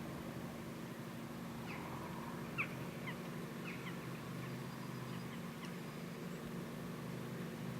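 New Holland tractor engine running steadily while ploughing, with a string of short, high bird chirps from about two seconds in until near six seconds.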